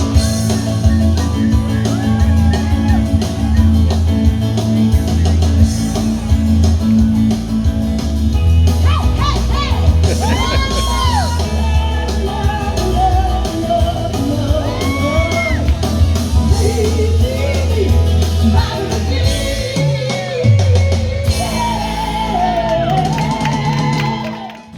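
Live band playing with a singer over a steady bass line, with a few shouts; it cuts off abruptly at the end.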